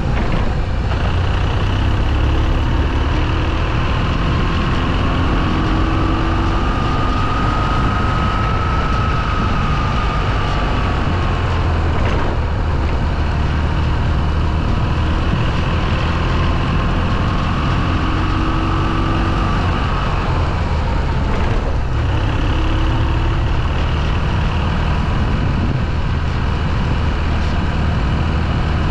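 Motorcycle engine running while riding, over a heavy steady low rumble, with a faint whine that slowly rises and falls twice as the engine speed changes.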